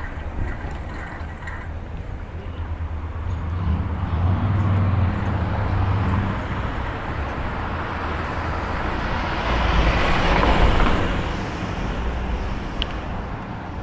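Road traffic passing close: one vehicle builds up and goes by about ten seconds in, over a steady low rumble. A single sharp click near the end.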